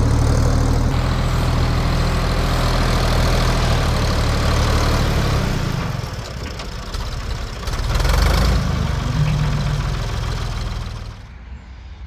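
The diesel engine of a 1973 Ford 4500 industrial backhoe running steadily. It drops off about six seconds in, surges briefly about two seconds later, and falls much quieter near the end.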